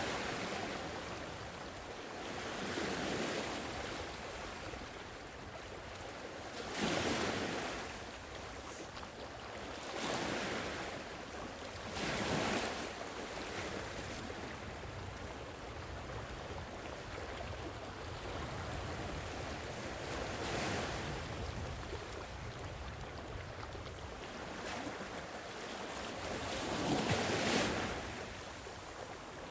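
Gentle sea waves washing in: several waves surge up a few seconds apart, the loudest near the end, over a steady hiss of surf.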